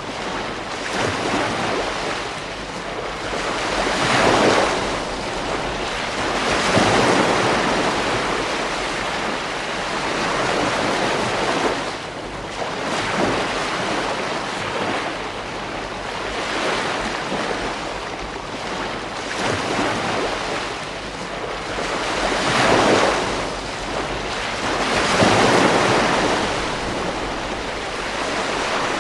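Ocean waves breaking on a beach, the surf swelling and falling away every few seconds over a steady wash.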